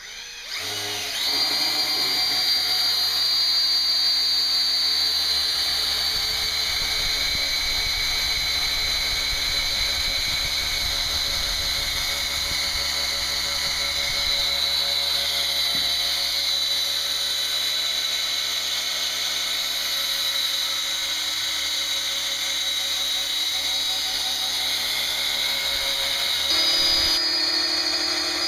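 Electric drill running steadily under load, spinning the engine's oil pump to pre-lube a new marine engine before its first start. The whine comes in about a second in, sags slowly in pitch, and steps up near the end.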